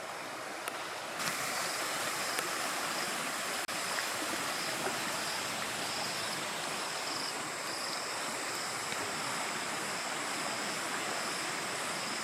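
A river in flood after heavy rain upstream, its fast water making a steady rush that grows brighter and a little louder about a second in.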